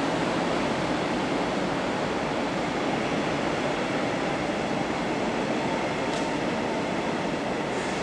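DB Regio double-deck regional train moving out along the platform in the underground station hall, a steady rumble of the running train that slowly fades. A faint steady whine joins about six seconds in.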